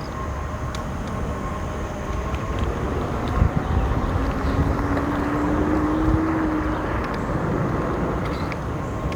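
Steady rushing ride noise from an electric kick scooter on wet pavement: wind on the microphone and tyre hiss. A low hum swells and fades in the middle.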